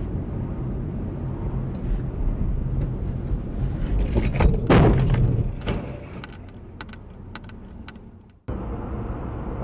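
Steady road noise from a moving car, then a loud crash of a collision about four and a half seconds in. Scattered clattering and tinkling of debris follows and fades over the next few seconds. The sound cuts off abruptly and steady road noise starts again.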